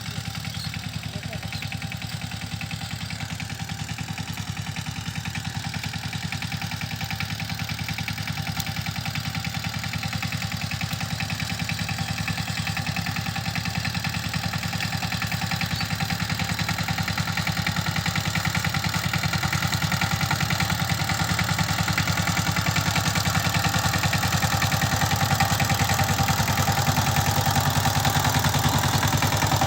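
Power tiller's 16 HP single-cylinder diesel engine running with a fast, even chugging beat, growing gradually louder.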